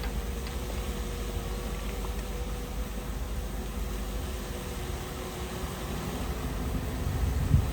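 Heavy diesel earthmoving machine running steadily with a low rumble and a faint steady hum. A single low thump near the end.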